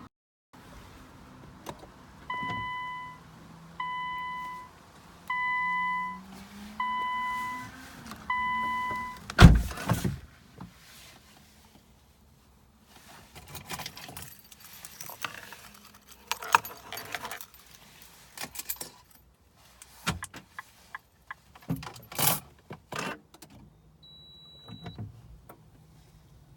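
Nissan GT-R R35's warning chime beeping five times, about a second and a half apart, while the car will not start with the key warning light on. A loud thump follows, then keys jangling and clicking, and one short high beep near the end.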